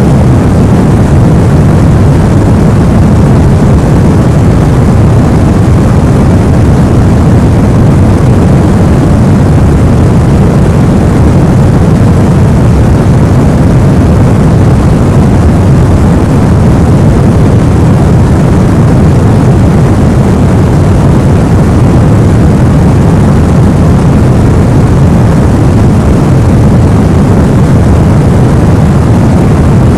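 Sleep-aid noise for babies, sold as white noise: an even, unchanging hiss heaviest in the low end, like a deep steady rumble.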